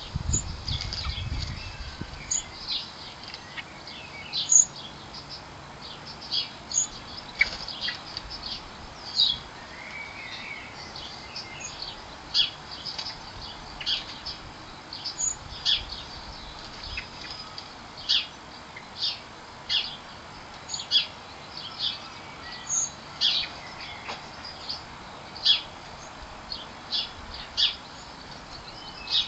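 Garden songbirds chirping: short, high, separate chirps repeated roughly once or twice a second over a faint steady background, with a brief low rumble at the start.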